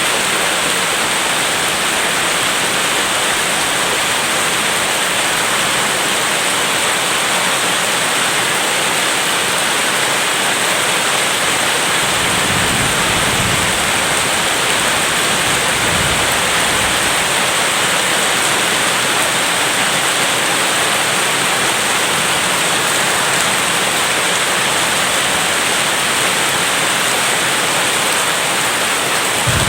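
Steady heavy rain. A low rumble of distant thunder comes in about twelve seconds in and dies away a few seconds later.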